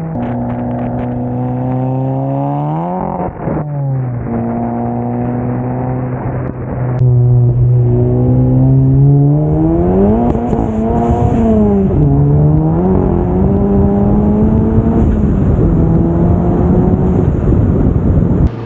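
VW MK7 GTI's IS38-turbocharged 2.0-litre four-cylinder with an aftermarket exhaust, heard while driving. Revs climb and drop sharply about three seconds in, hold steady, then the engine gets louder around the middle, climbing and falling again before settling to a steady drone.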